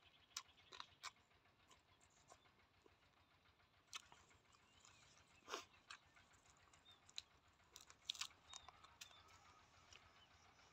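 Faint close-up chewing: scattered sharp mouth clicks and small crunches, heaviest in the middle of the stretch.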